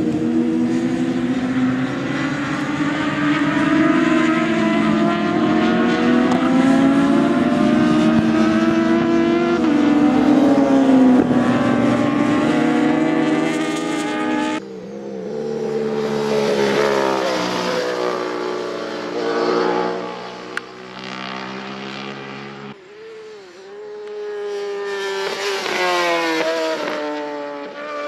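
Racing motorcycle engines at high revs, several at once, their pitch rising and falling as the bikes accelerate, shift and pass. The sound changes abruptly about fifteen and twenty-three seconds in.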